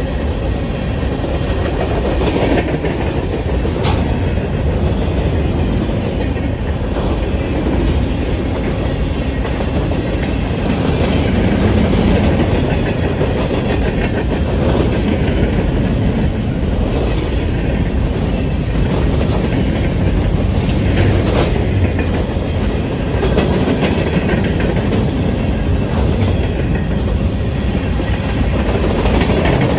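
Cars of a passing manifest freight train rolling by close up: a steady, loud rumble of steel wheels on rail, with a few clicks and knocks from the wheels and couplers along the way.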